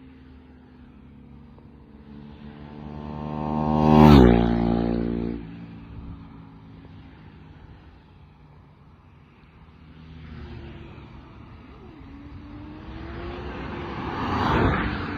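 Superbikes passing at speed: one swells to a loud pass about four seconds in, its engine note dropping sharply in pitch as it goes by, and a second comes up and passes near the end.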